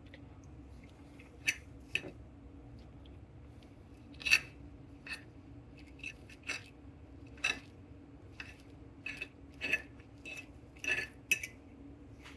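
Utensils and dishes clinking and tapping: a string of sharp, irregular clicks, roughly one a second, over a steady low hum.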